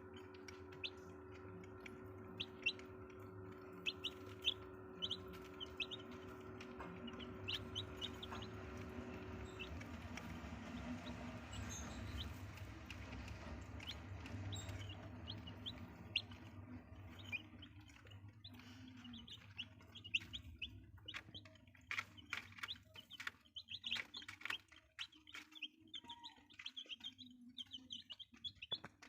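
Young chicks peeping: many short, high cheeps, coming thicker and faster in the second half.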